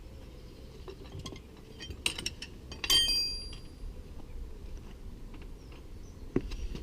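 Metal tools and parts clinking, with scattered small clicks and one loud ringing clink about three seconds in.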